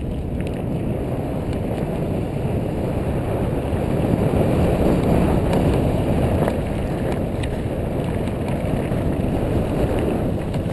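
Steady wind rush on the microphone with rolling tyre rumble as a mountain bike is ridden along the trail, with a few faint clicks.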